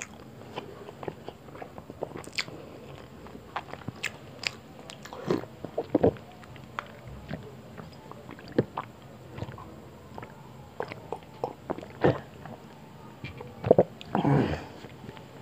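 Close-up eating mouth sounds: chewing with scattered wet clicks and lip smacks at an irregular pace. A short breathy swell comes near the end.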